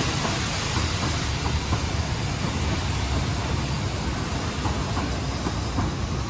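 A 15-inch-gauge miniature railway train's coaches rolling past on the track, a steady rumble with faint clicks of wheels over the rails.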